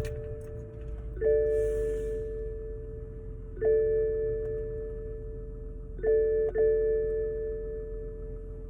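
A car's dashboard warning chime, a single bell-like tone repeating every couple of seconds and ending in two quick chimes near the end. It sounds with the dashboard's snowflake ice warning in freezing weather.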